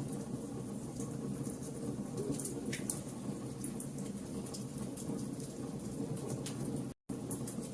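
Fire crackling: a steady low rumble with scattered sharp pops and snaps, broken by a split-second gap near the end.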